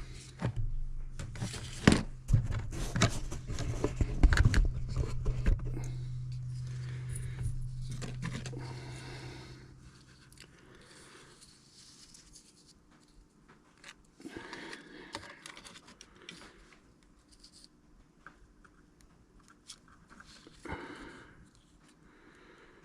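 Small handling noises of hands working on a pair of eyeglasses and their repair parts: clicks, taps and rustles, busiest in the first several seconds over a steady low hum, then sparse and quieter.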